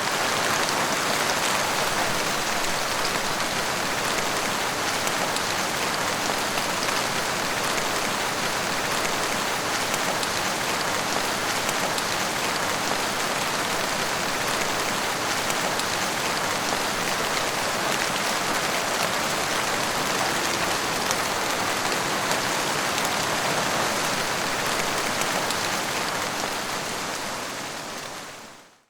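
Steady, heavy rainfall with a dense patter of drops, fading out near the end.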